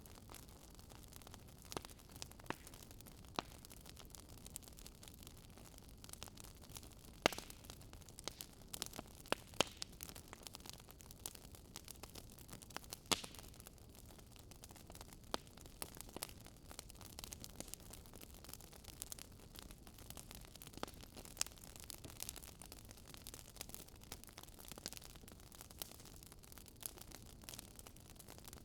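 Wood fire in a fireplace crackling: irregular sharp snaps and pops over a soft steady hiss, a few of the snaps louder than the rest.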